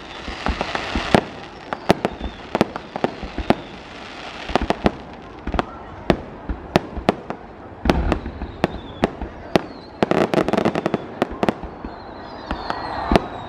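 Aerial fireworks going off: a steady string of sharp bangs with crackling, a dense rapid run of pops about ten seconds in, and thin falling whistles.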